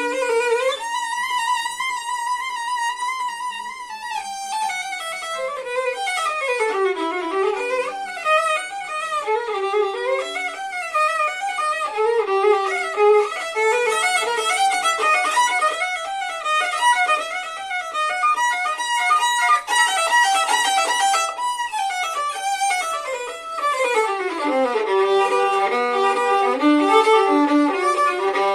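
A violin plays a long held note with vibrato, then fast running passages that climb and fall in pitch.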